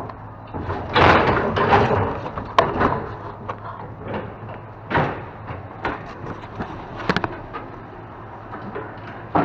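Rummaging through a dumpster: items being shifted and handled, with irregular rustling and clatter and several sharp knocks, loudest about a second in.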